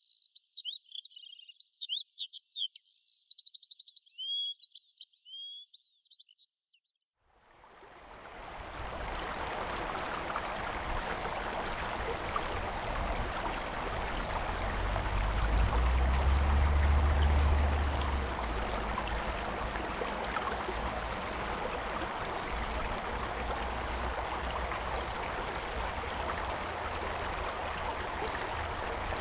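A bird singing in quick chirps and trills for the first several seconds, then the steady rush of a stream fades in and runs on. A low rumble swells under the water for a few seconds in the middle.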